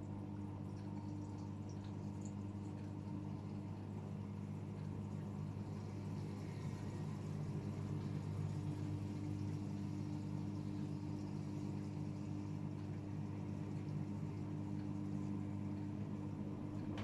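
AEG Öko-Lavamat 76910 washing machine running mid-cycle: a steady low motor hum over water sounds inside the tub.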